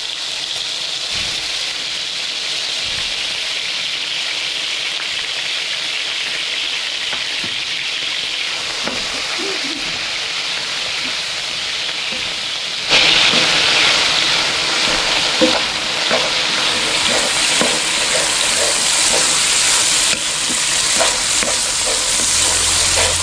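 Chicken pieces sizzling in hot oil in a wok, a steady frying hiss. About halfway through the sizzle gets suddenly louder, and a wooden spatula can be heard lightly scraping and knocking on the wok as the chicken is stirred.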